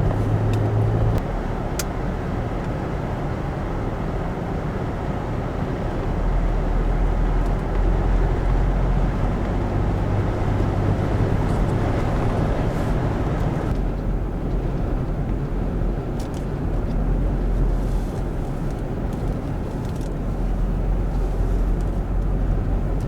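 Steady low vehicle rumble of engine and road noise. About fourteen seconds in the upper hiss drops away suddenly while the low rumble carries on.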